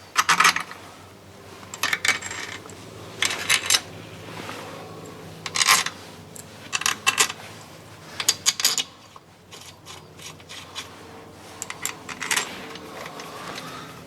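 Short bursts of metallic clicking and clinking about every one and a half seconds, from hand tools being worked on the metal crankcase of a KTM 300 two-stroke engine during bottom-end assembly.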